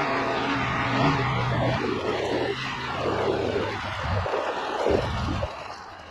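Polaris Ranger XP 1000 UTV's twin-cylinder engine running while driving, under a rush of wind and tyre noise. The engine note fades about four seconds in and the whole sound gets quieter near the end.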